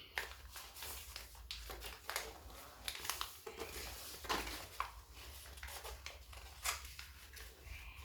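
A sheet of paper being folded and creased by hand: irregular crinkling and rustling with sharp crackles.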